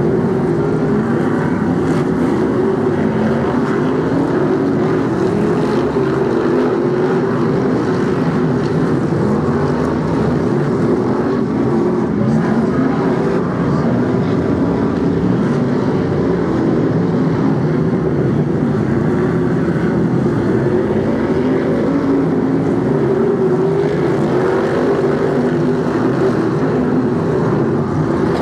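A pack of Brisca F1 stock cars racing around a short oval, several big V8 engines running at once in a steady din, with pitches rising and falling as cars accelerate and lift.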